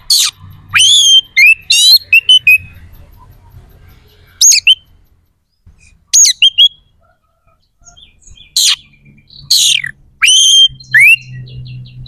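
Oriental magpie-robin (kacer) in full song: loud, separate phrases of clear whistles, sliding notes and quick rattling runs, broken by short pauses.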